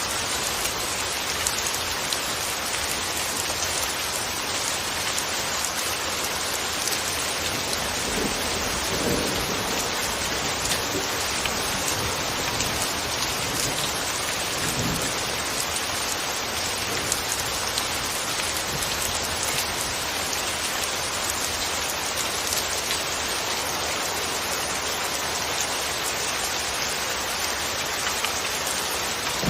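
Steady, even rainfall, with a constant hiss of drops on a surface. A few brief low rumbles swell under it about a third and halfway through.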